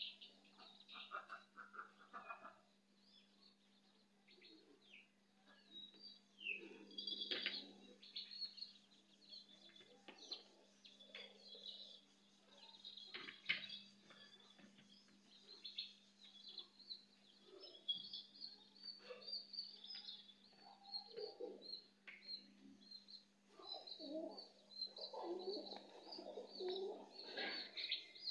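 Small birds chirping again and again, faint, with a couple of sharp knocks, the loudest about halfway through. A low steady hum runs underneath.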